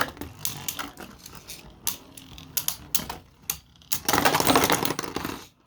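Spinning Beyblade tops clashing in a plastic stadium: a run of rapid, sharp clicks and knocks, then about four seconds in a dense, loud stretch of grinding and rattling that stops abruptly near the end.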